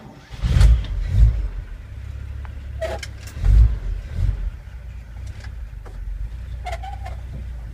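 1946 Chevrolet 2-ton truck's Loadmaster 235 straight-six engine catching about half a second in and being revved in a few bursts, then settling into a steady idle. Two short squeaks, about three and seven seconds in.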